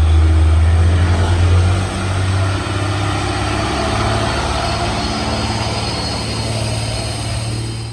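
Heavy truck engine running with a loud, low drone. Its pitch shifts and the level drops a little about two seconds in.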